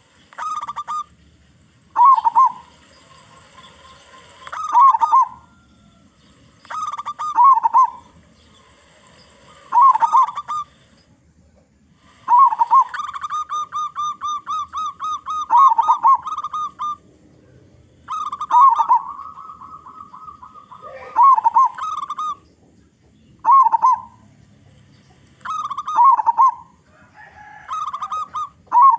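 Zebra dove (perkutut) calling: short cooing phrases repeated every few seconds, with two longer runs of rapid staccato notes about halfway through.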